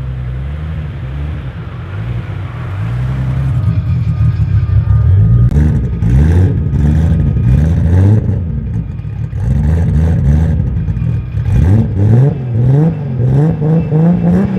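Turbocharged 2.9-litre VR6 engine of a tuned VW Golf MK3 revving again and again while the car stands on the start line. The revs come in short rising blips that grow quicker and more frequent from about five seconds in, with sharp cracks between them.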